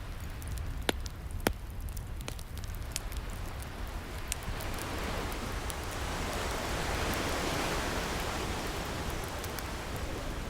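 Wood fire crackling with a few sharp pops in the first seconds, under a steady low rumble of surf, as an ocean wave swells up about halfway through and washes out again near the end.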